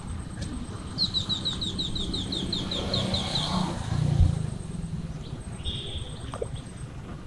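A bird singing a fast run of about a dozen repeated high, downward-sweeping chirps, starting about a second in and lasting a couple of seconds, with a shorter high note later. Under it runs a low steady rumble, and there is a dull thump about four seconds in.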